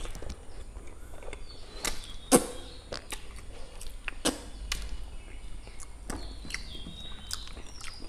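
Close-up eating sounds of a person chewing mouthfuls of pork curry and rice: wet smacks and clicks of the mouth, irregular. The loudest comes about two and a half seconds in.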